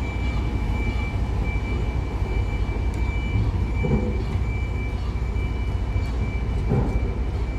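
Electric tram running at depot-shunting speed: a steady low rumble with a steady high-pitched whine and faint clicks, and two brief louder low sounds about four and about seven seconds in.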